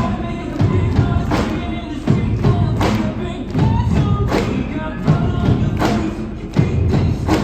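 Indoor winds ensemble performing: wind instruments playing sustained chords over percussion, with strong drum hits recurring roughly every second or so.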